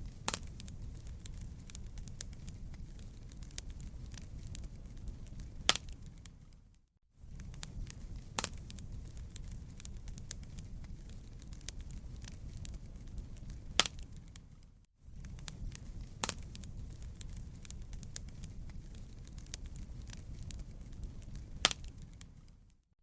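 Wood fire crackling in a fireplace: dense small crackles and several louder pops over a steady low rumble. The sound drops out briefly about every eight seconds, twice in the middle, as the loop restarts.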